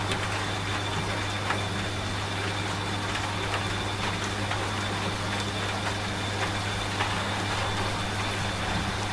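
Washing machine running with a steady low hum, mixed with the even hiss of rain and scattered drop ticks.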